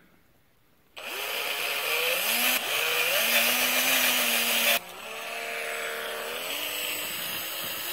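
Electric drill running as it bores a cavity into a corn cob, starting about a second in, its motor pitch rising and levelling off. It breaks off briefly about five seconds in, then runs on steadily.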